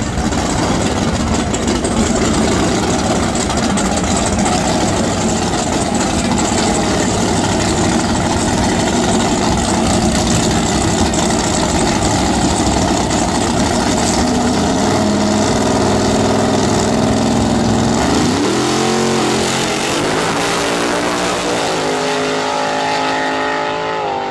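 Drag car's Chevrolet V8 running loudly at the starting line, then launching about 18 seconds in and accelerating away down the strip, its pitch rising in steps through a few gear changes.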